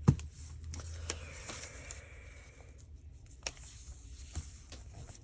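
Paper being handled on a craft table during gluing, with a sharp tap near the start and a few lighter taps after it.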